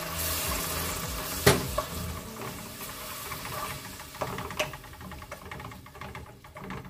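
Onion and spice masala sizzling and hissing in hot oil in a cooking pot, with a little water just added, while a spoon stirs and scrapes it. The spoon knocks sharply against the pot about a second and a half in and clicks a couple more times, and the sizzle dies down toward the end.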